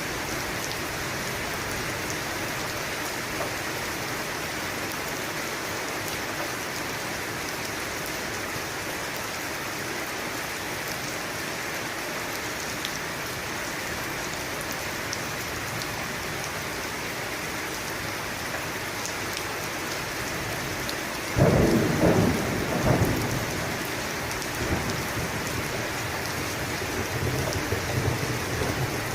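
Steady heavy rain falling, with a sharp thunderclap about two-thirds of the way through that rolls and fades over a few seconds, and a softer low rumble of thunder near the end.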